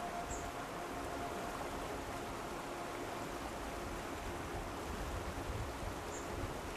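Steady rushing ambience like a flowing stream, with faint soft held tones underneath and two short high chirps, one near the start and one near the end.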